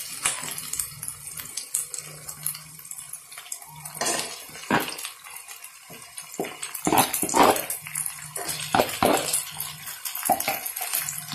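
A dog barking several times in short calls, with scattered clinks of a spoon against a pan.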